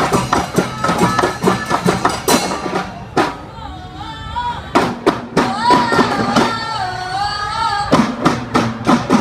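Live percussion ensemble performance: a group of drums strikes a fast, dense rhythm, then drops out about three seconds in. A held, wavering melodic line takes over, punctuated by a few sharp drum hits, with a burst of strikes near the end.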